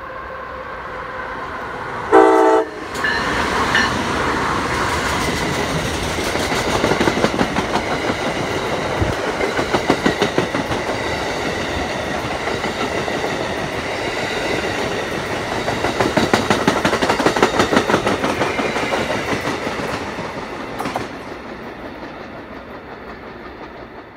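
Passenger train sounding one short horn blast about two seconds in, then passing close at speed. Its wheels make a long run of rapid clicks that swells and falls away near the end.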